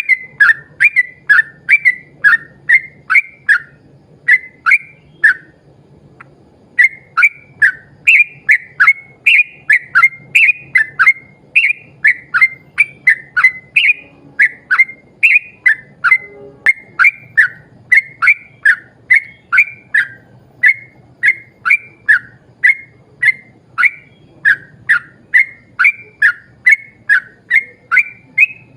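Yellow-vented bulbul (trucukan) singing a long unbroken run of short bubbling whistled phrases, about two to three a second, with one brief pause about six seconds in.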